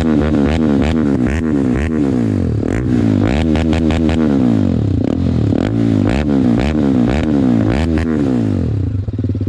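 TVS Apache RR 310's single-cylinder engine breathing through a Yoshimura slip-on exhaust, revved again and again in quick throttle blips, each rising and falling in pitch. Near the end it settles to a steady, pulsing idle. The exhaust note is very loud.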